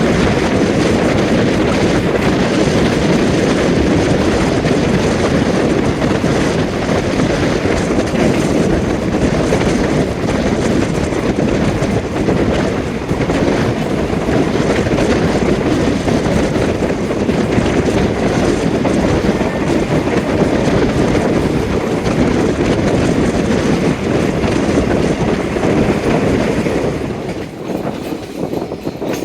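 Moving passenger train: wheels running over the rails with a loud steady rumble and the clickety-clack of rail joints, easing off somewhat near the end.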